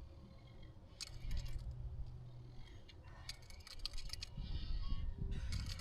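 Light clicks and rattles of a broken fishing rod and tackle being handled, in scattered clusters about a second in and again from about three seconds on, over dull low knocks.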